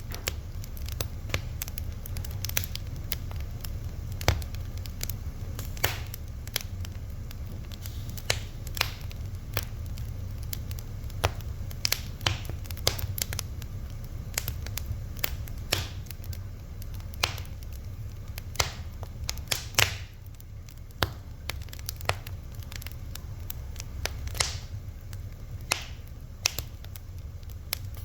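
Fire crackling: irregular sharp pops and snaps, several a second with now and then a louder one, over a steady low rumble.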